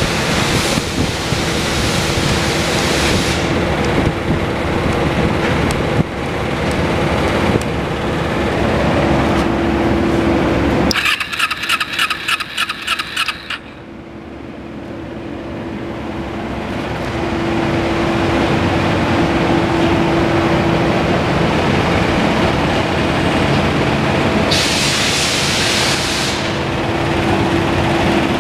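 2008 Kawasaki EX250's parallel-twin engine running. About halfway through there are a couple of seconds of rapid, even pulsing, then the sound drops away suddenly and builds back up over a few seconds.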